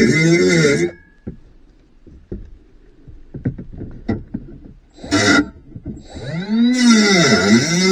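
Battery-powered cutting tool running briefly, stopping, then starting again and running on. Its pitch wavers as it works against the material. Between the runs there are small scraping and tapping sounds and one short burst of the tool about five seconds in.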